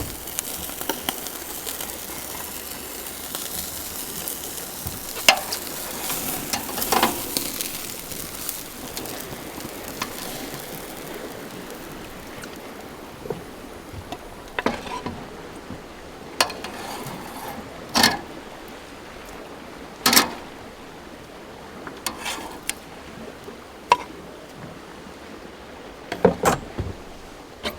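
Food sizzling on a grill, a steady hiss that fades after about twelve seconds, with scattered clinks and scrapes of cooking utensils.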